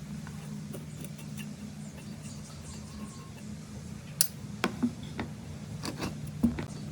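Sharp metallic clicks and clinks, about seven of them in the last three seconds, over a steady low hum.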